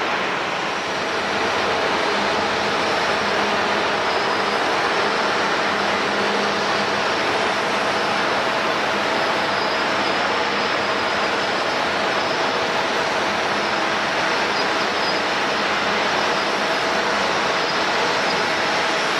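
Jet airliner engines running steadily: an even rushing noise with faint steady whining tones underneath.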